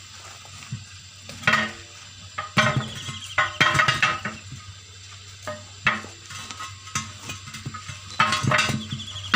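Metal hand tools clinking and knocking during a truck tyre puncture repair, in irregular clusters of sharp hits. A short falling warbling tone sounds once in the middle.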